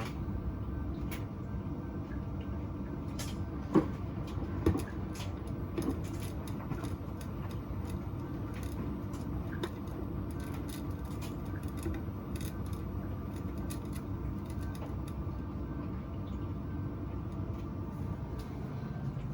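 Beko washing machine running with a steady hum, with a few scattered clicks and knocks on top, the sharpest a little under four seconds in and another about a second later.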